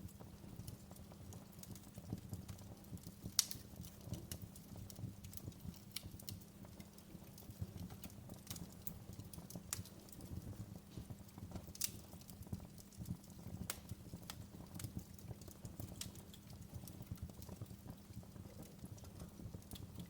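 Wood fire crackling in a fireplace: irregular sharp pops and snaps over a low, steady rumble, with one louder pop a few seconds in.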